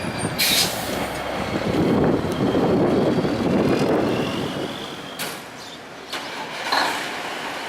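Autocar diesel dump truck driving past, its engine noise swelling and fading, with a short sharp hiss about half a second in and a couple of brief knocks near the end.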